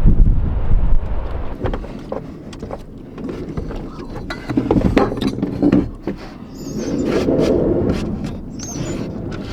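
Wind buffeting the microphone for about a second, then assorted knocks, clicks and rustling from handling things, with two short high squeaks near the end.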